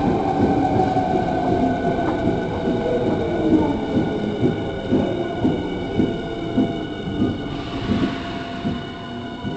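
Hankyu electric train slowing in an underground tunnel, heard from inside the car: a steady rumble with a motor whine that slowly falls in pitch and wheel clacks over rail joints coming gradually further apart.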